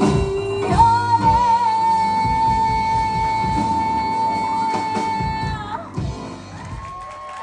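A woman's voice holding a long high final note over a live band's closing chord. The note ends about six seconds in, leaving the room quieter.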